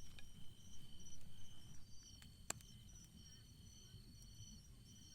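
Autumn crickets chirping in steady high-pitched pulsing trills over a low background rumble, with a single sharp click about two and a half seconds in.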